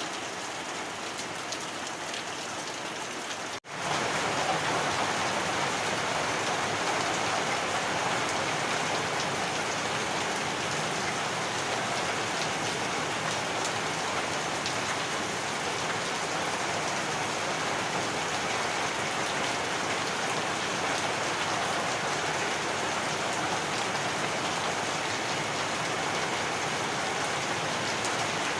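Heavy rain falling steadily, a dense even hiss of drops. It cuts out for a split second about three and a half seconds in, then continues slightly louder.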